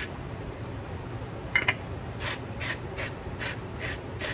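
Salt being shaken out for a half-teaspoon measure: a soft hiss with each shake, about two to three shakes a second, after a single sharp click about a second and a half in.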